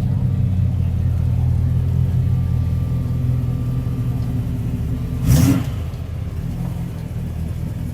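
A car engine running with a steady low rumble, and one brief loud burst about five seconds in.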